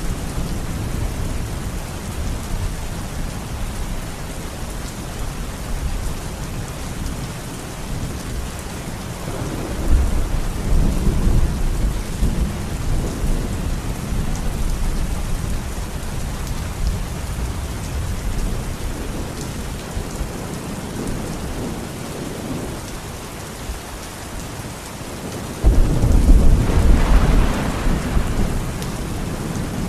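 Steady rain falling in a thunderstorm, with thunder rumbling low about a third of the way in and a louder thunderclap starting suddenly near the end and rolling away over a few seconds.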